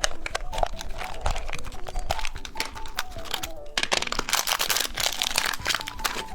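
Plastic candy packaging crinkling and clicking as it is handled and opened, with a stretch of louder continuous crinkling and tearing from about four seconds in to nearly six seconds. A faint background tune plays under it.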